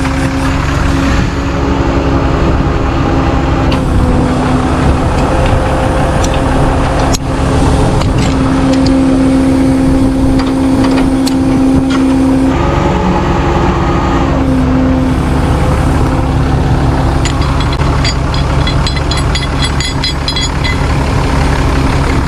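Vehicle engines running during a recovery pull of a stuck two-wheel-drive vehicle on a steep gravel grade: a steady drone whose pitch steps up and down several times. A single sharp knock about seven seconds in.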